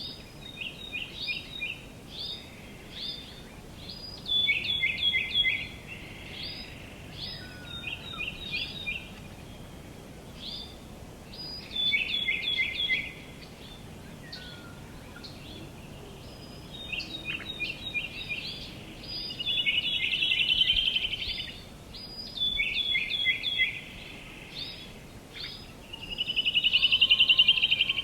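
Songbirds chirping and singing in short repeated phrases, with a fast trill twice, the louder one near the end, over a steady low background noise.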